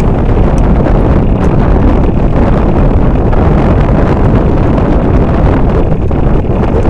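Loud, steady wind buffeting the microphone aboard a moving boat, mixed with the rumble of the boat underway.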